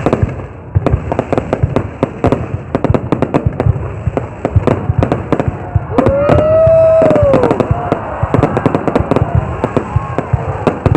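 Fireworks going off in rapid, dense volleys of sharp cracks and bangs. A loud whistle rises and falls about six seconds in, with fainter whistles after it.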